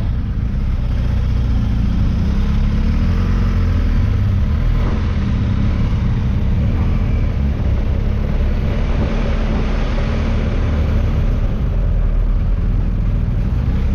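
Motorcycle under way on the road: its engine runs steadily beneath a constant low rumble and rushing noise, with no change in pace.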